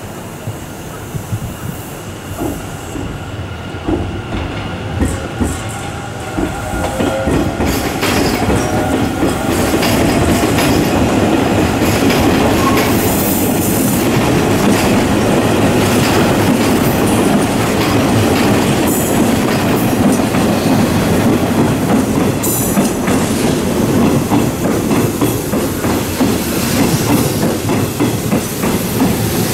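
Hanshin 8000-series electric train running into the station over the pointwork and along the platform, wheels clattering over the rail joints with some squeal on the curves. It grows louder about nine seconds in and stays loud as the cars pass close by.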